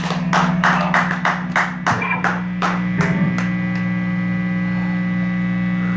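Rhythmic percussive taps, about three a second, dying away about three and a half seconds in, over a steady electrical hum from the band's amplifiers.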